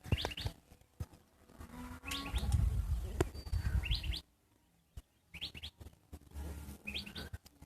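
A bird chirping repeatedly in short rising notes, two or three at a time, every second or two. A low rumble on the microphone runs from about two seconds in to four seconds in, with a single click in the middle of it.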